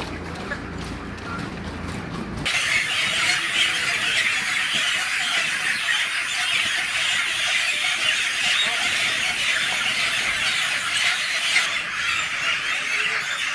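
After a low machine hum, a dense chorus of many young chicks peeping starts abruptly about two and a half seconds in and carries on unbroken.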